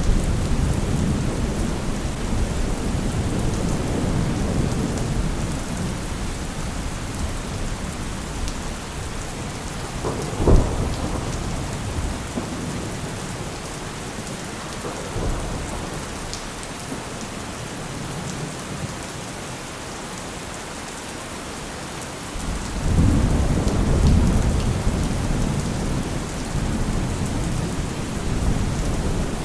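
Steady rain with thunder. A low rumble fades over the first several seconds, a single sharp crack of thunder comes about ten seconds in, and a louder rumble rolls in about three-quarters of the way through.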